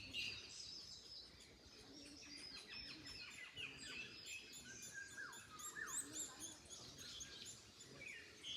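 Several songbirds singing and calling over one another, a dense chorus of short chirps and quick downward-sliding notes, faint against a low hiss of wind.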